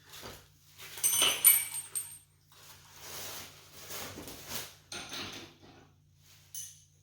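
Metal hardware being handled and fitted onto a generator frame: a clanking, ringing clink of metal on metal about a second in, then several shorter scraping and clattering bursts.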